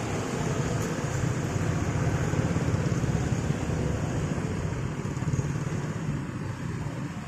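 Steady low rumble of vehicles passing a railway level crossing, easing off slightly near the end.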